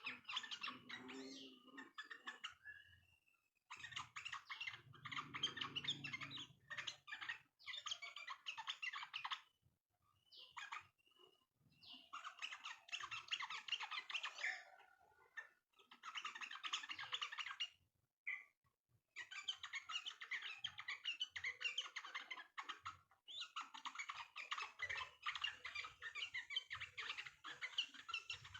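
Trucuk birds (yellow-vented bulbuls) singing a rapid, busy chattering song. It comes in bursts of a few seconds, broken by short pauses.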